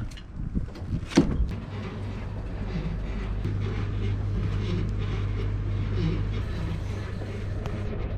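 MAN TGX truck's diesel engine running steadily, with a few sharp knocks in the first second or so.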